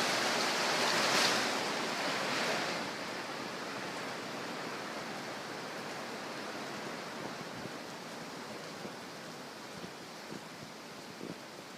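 Heavy rain falling with water splashing and running, louder for the first three seconds, then a steadier, softer hiss. A few faint taps near the end.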